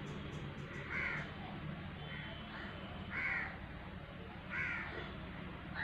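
A bird calling repeatedly: four short calls about a second and a half apart, with a fainter one between the first two. Under them runs a steady low hum.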